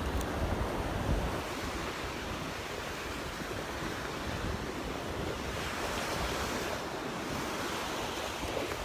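Gulf surf breaking and washing up the beach in a steady rush, swelling about six seconds in. Wind buffets the microphone with a low rumble during the first second or so.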